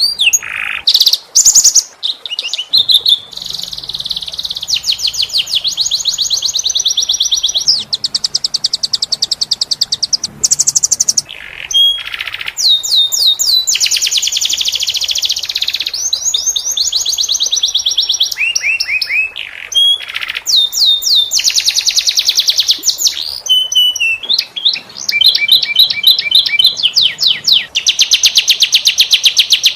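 Domestic canary singing continuously, a long gacor song of rapid rolling trills and fast down-slurred notes, switching to a new phrase every few seconds.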